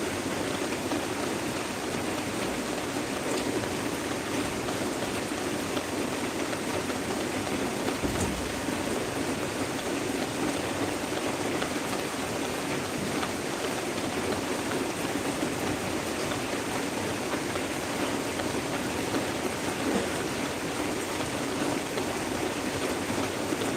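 Heavy rain falling steadily, a dense continuous patter of drops on surfaces. A faint low thud about eight seconds in.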